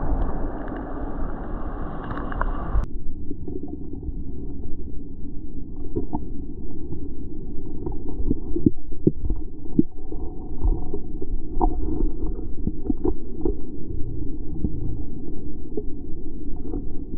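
Muffled underwater sound from a camera held below the creek surface: a low rumbling and gurgling with scattered knocks and clicks.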